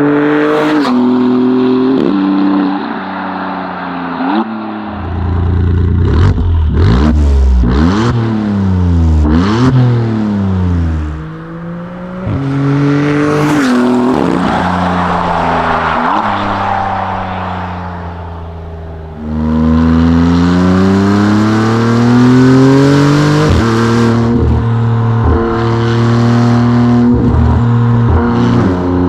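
Maserati MC20's twin-turbo V6 through a Novitec race exhaust with flap control and sport metal catalysts, accelerating hard through several gears. The pitch climbs with each gear and drops back at each shift, with sharp cracks on several shifts. Part way through it eases off and falls away, then pulls hard again.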